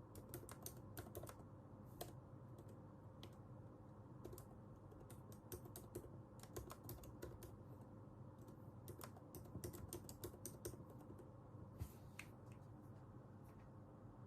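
Typing on a computer keyboard: irregular runs of soft key clicks with short pauses between, over a faint steady hum.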